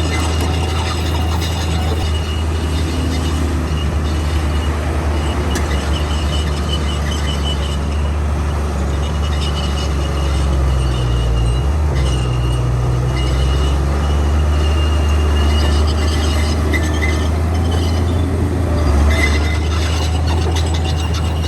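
Komatsu D41P bulldozer's diesel engine running steadily under load, with a high squeal from the steel tracks that comes and goes and rapid track clatter near the end.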